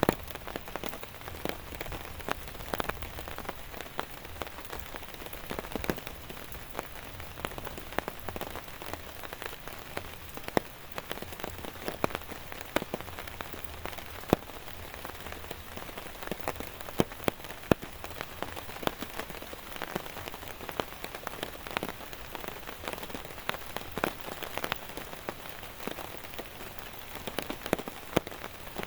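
Steady rain falling, with many individual drops striking close by in sharp, irregular taps.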